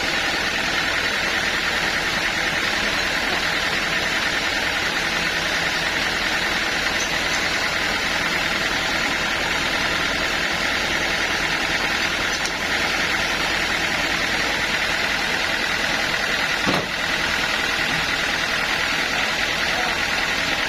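Sawmill band saw machinery running steadily, with one short knock about three quarters of the way through.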